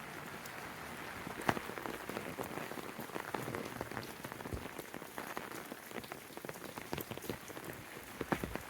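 Steady rain with many sharp drops pattering close by, one louder drop about a second and a half in.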